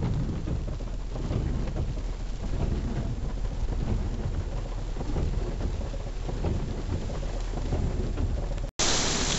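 Heavy hurricane rain pouring, with a rumble running underneath. Near the end the sound drops out for a moment and the rain comes back as a louder, brighter hiss.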